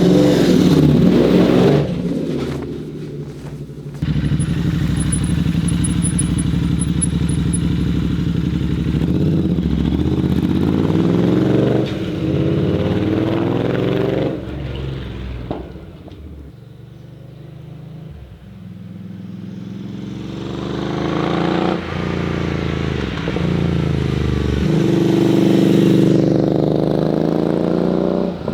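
Royal Enfield Interceptor 650's parallel-twin engine through a Zard aftermarket exhaust, ridden hard: pitch climbing and breaking off repeatedly as it accelerates up through the gears. It drops to a quieter, low note for a few seconds about two-thirds of the way through, then pulls up through the revs again.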